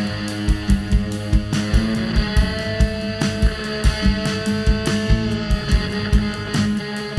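Live rock band playing an instrumental passage: drums keeping a steady beat under upright bass and guitars, with one note held for about two seconds in the middle.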